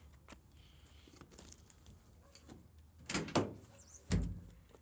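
A door on the pickup truck being worked: short latch and creak sounds about three seconds in, then one heavy, low thump about four seconds in as it shuts.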